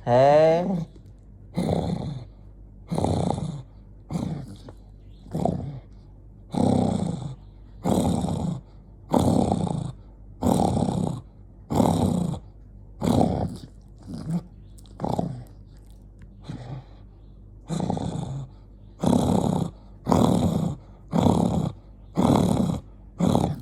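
Angry dog growling in short, rough bursts, about one a second, with brief pauses between them.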